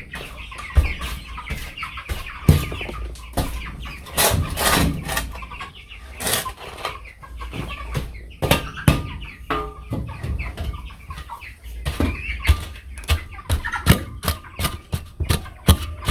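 A flock of broiler chickens clucking and calling, over many short sharp knocks and scrapes coming irregularly throughout.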